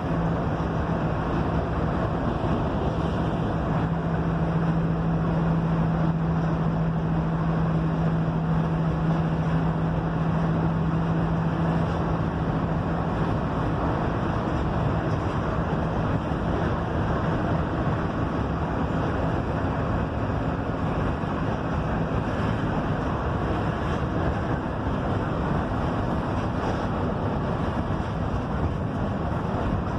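Mercedes-Benz OF-1721 bus underway, its engine drone and road noise heard from inside the cabin; a steady low hum in it fades out about halfway through.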